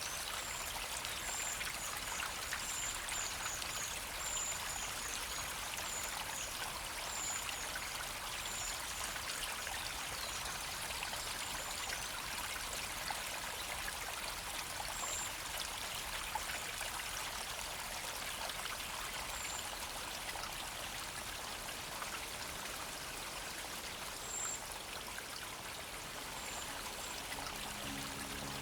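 River water running, a steady rush, with faint short high chirps now and then.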